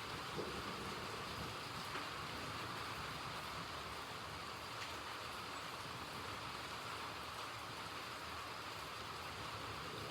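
Steady rain falling, an even hiss with a few single drops ticking.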